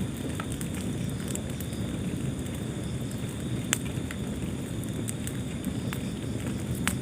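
Wood fire burning in a fireplace: a steady low rush of flames with scattered small crackles, and two sharper pops, one about halfway through and one near the end.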